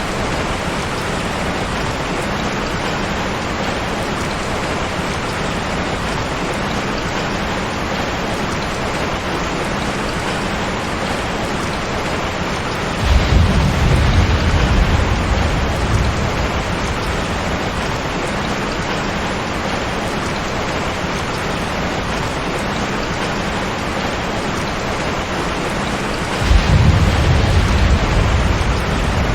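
Steady heavy rain hissing, with two low rolls of thunder: one about halfway through and one near the end.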